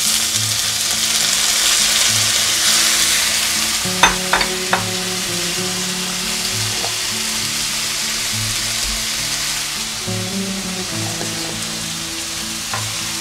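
Drained boiled sweetcorn kernels tipped into hot melted butter in a non-stick pan, sizzling steadily, strongest in the first few seconds and then settling. A few light clicks come about four seconds in.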